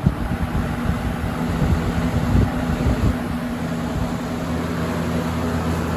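1986 Lakewood P-223 box fan running on high speed: its McMillan motor hums steadily under a rush of moving air. There is gusty low rumbling in the first three seconds, then an even sound.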